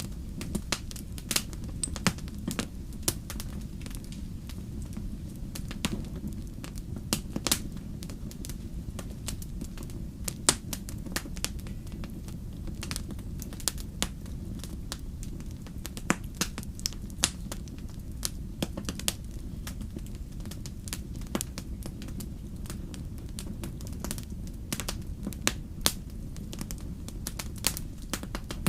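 Wood fire in a fireplace crackling: frequent irregular sharp pops and snaps, some much louder than others, over a steady low rumble.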